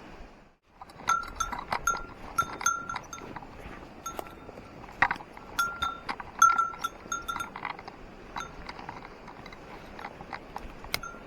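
A small metal bell jingling in short, irregular strikes. They come thick for the first several seconds and then only now and then.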